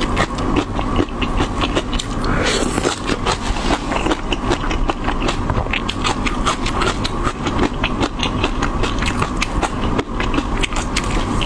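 Close-miked chewing of crunchy leafy greens: a dense, rapid run of wet crunches and clicks, with a brief louder rush of noise about two and a half seconds in.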